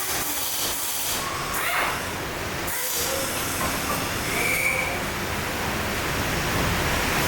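Factory machinery running: a steady mechanical clatter and hiss, with a short high squeal about four and a half seconds in.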